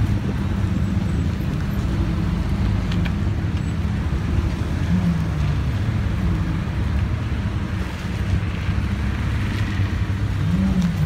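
Lamborghini engines idling with a steady low rumble, with a brief rev rising and falling about five seconds in and another near the end.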